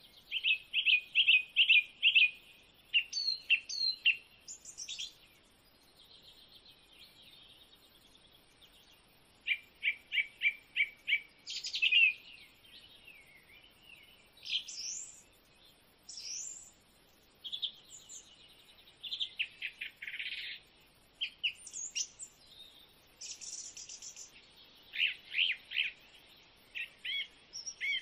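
Birds singing: runs of quick, high repeated chirps mixed with short whistled notes, broken by brief pauses.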